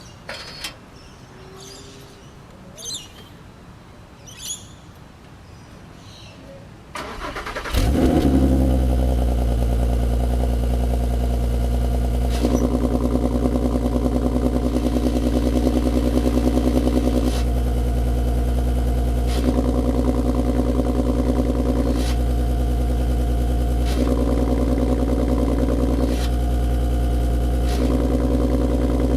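3.6-litre VR6 engine through a Varex valved exhaust cranking, catching with a short flare about a quarter of the way in, then idling. The exhaust note changes in and out every two to three seconds.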